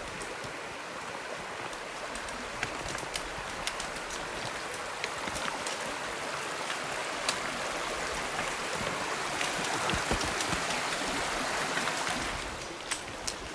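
Mountain stream rushing steadily, swelling louder past the middle and easing off a little before the end, with scattered sharp clicks over it.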